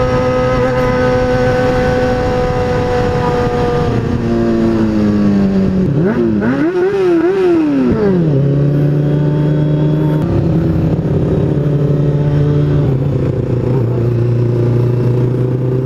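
Kawasaki ZX-6R 636 inline-four sportbike engine running at a steady pitch, then slowing down, with a quick run of throttle blips about six seconds in. After that it settles to a lower, steady idle.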